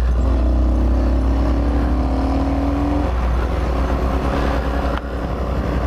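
Hawk 250 dirt bike's single-cylinder four-stroke engine accelerating under way. Its pitch climbs for about three seconds, drops with an upshift, then climbs again.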